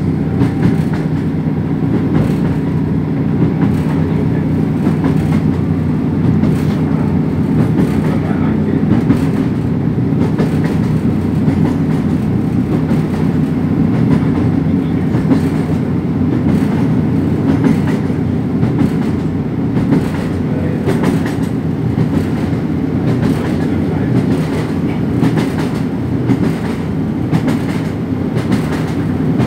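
Cabin noise of a Class 150 diesel multiple unit running at speed: a steady rumbling drone from the underfloor diesel and the wheels on the track, with the clickety-clack of wheels passing over rail joints.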